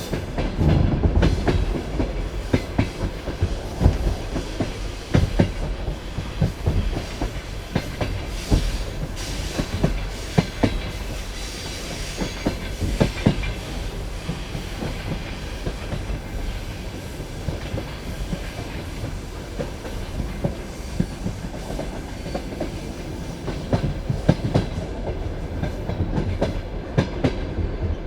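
Passenger train carriage wheels clattering over rail joints: a steady low rumble with irregular sharp knocks, heavier near the start and again near the end.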